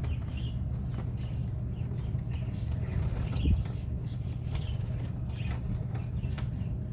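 Budgerigars chirping in short, repeated calls over a steady low rumble, with a single thump about halfway through.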